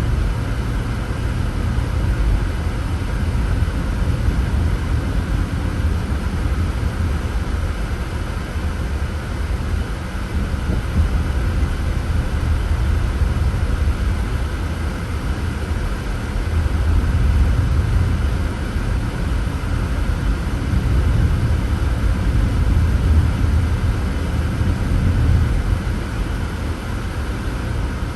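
Car driving on a road: a steady low rumble of tyres and engine, swelling a little now and then.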